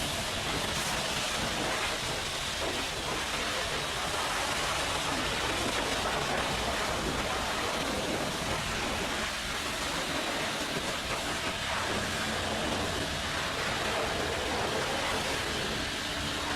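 Steady hiss of a pressure washer's water jet spraying onto a truck.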